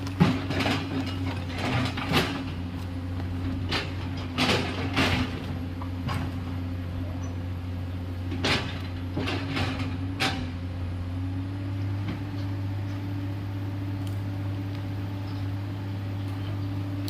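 Komatsu PC210LC excavator's diesel engine running steadily, with scattered sharp knocks and clanks from the machine at work. The engine note rises slightly about eleven seconds in.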